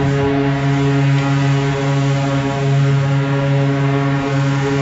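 Steady drone from a moving train, one pitch rich in overtones held without a break, over a low running rumble.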